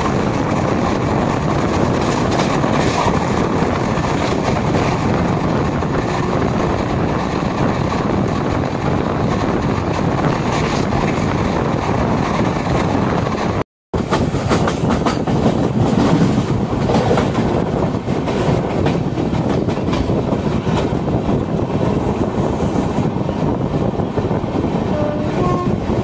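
Passenger express train coach running at speed, heard from its open doorway: a steady loud rush of wheels on rail and wind. Wheels click over rail joints and points, more clearly in the second half. The sound drops out for a split second about halfway.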